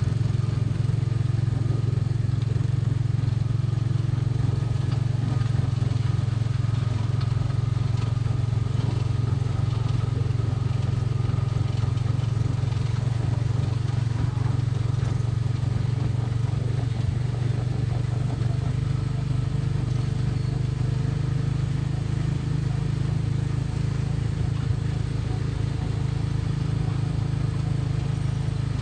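Small gasoline engine of a Tomorrowland Speedway ride car running steadily at cruising speed, heard from on board.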